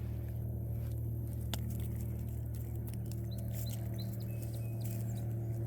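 A steady low motor hum, with a few short high chirps from a small bird about three to four seconds in and some faint clicks.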